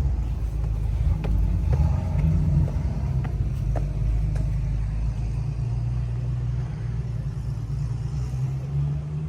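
Car engine running steadily with a deep, low rumble. A few faint clicks sound in the first few seconds.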